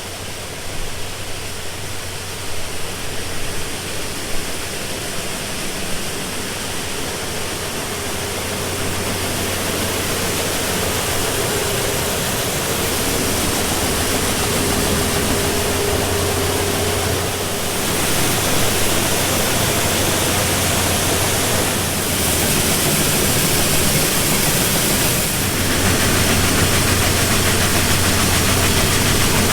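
Farm machinery running steadily: a low engine or motor hum under a dense rushing hiss that grows louder in steps.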